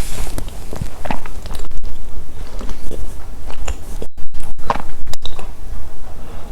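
Close-miked biting and chewing of Milka chocolate snacks, with irregular crunches and mouth sounds over a constant low rumble. The audio cuts out completely for split seconds a few times, the sign of a badly plugged-in microphone.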